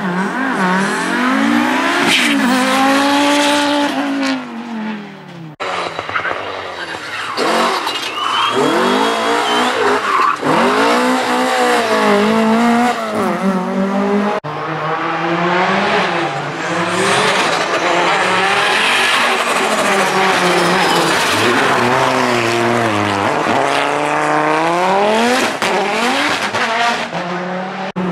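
Group B rally car engines revving hard, pitch climbing and dropping again and again through gear changes and lifts. The sound breaks off abruptly twice as one car gives way to the next, and tyres squeal in places.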